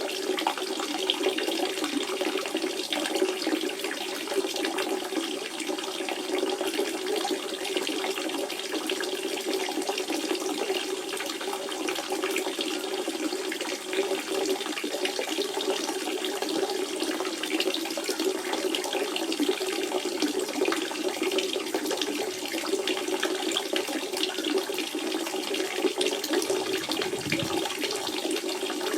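Natural spring water running in a steady, unbroken flow.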